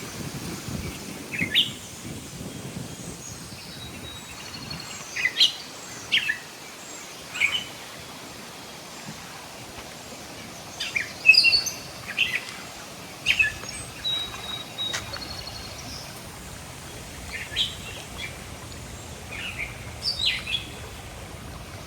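Wild birds chirping outdoors: short, sharp chirps every second or two, loudest about eleven seconds in, with one brief held whistle, over a faint steady hiss of open-air ambience.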